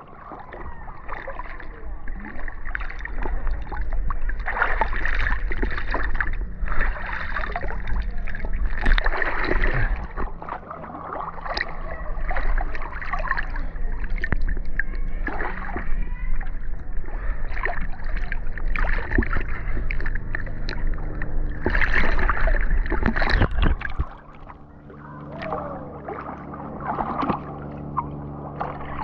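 River water rushing and splashing around a whitewater kayak held upright in a stern stall, with a heavy low rumble that drops away about four-fifths of the way through.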